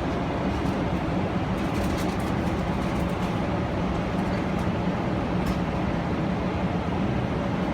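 Steady cabin noise of a Boeing 777-300ER airliner in flight: an even noise with a low hum and a few faint clicks.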